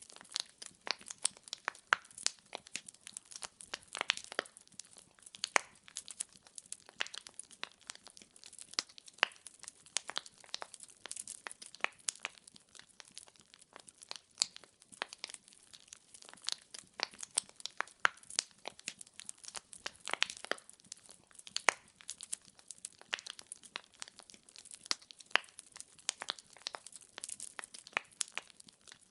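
Wood fire burning, with dense, irregular crackles and pops from the logs, several a second, over a faint hiss.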